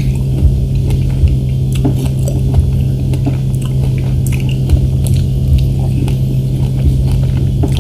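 Close-miked chewing of fresh strawberries, with scattered light clicks of a fork against the plate, over a steady low hum.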